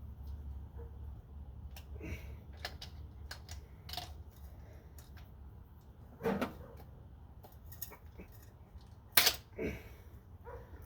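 Scattered clicks and knocks of tools and metal parts being handled, with two louder knocks about six and nine seconds in, over a steady low hum.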